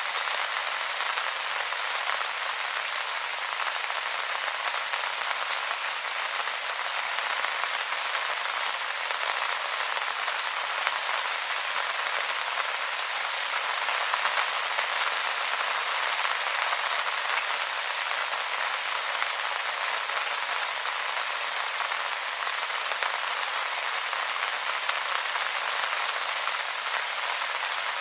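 Rain falling steadily on wet leaves: an even, unbroken hiss with nothing deep in it.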